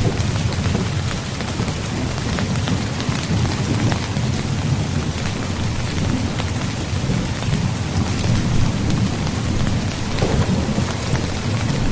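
Steady heavy rain on a tent: many separate drop taps on the fabric over a continuous low rumble.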